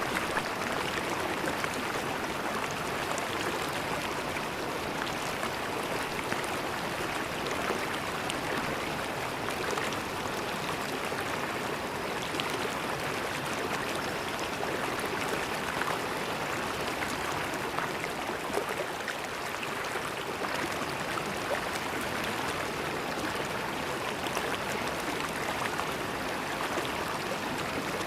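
River water flowing and gurgling steadily over stones, a constant splashing rush.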